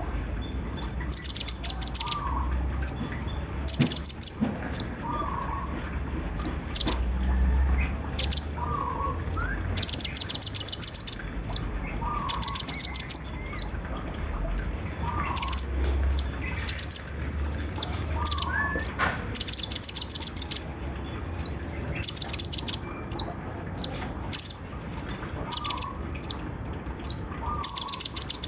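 Sunbirds (kolibri ninja and sogon) singing a repeated high, fast rattling trill in the sewing-machine style. Each burst lasts about half a second to a second and comes every second or two, with short high chips between the bursts.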